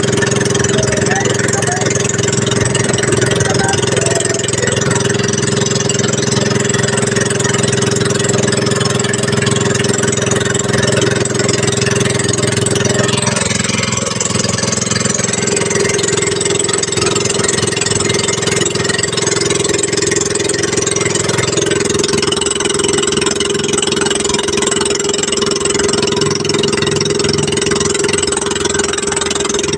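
An engine running steadily at a constant drone, its note shifting slightly midway and again a little past 20 seconds in.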